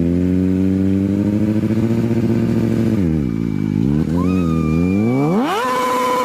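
Motorcycle engine revving: it holds a steady rev, dips and picks up again, then climbs steeply near the end and holds at high revs.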